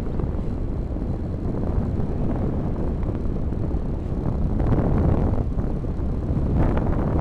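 Steady wind rumble on the microphone of a moving motorcycle, with the bike's engine and road noise beneath and a few brief knocks in the second half.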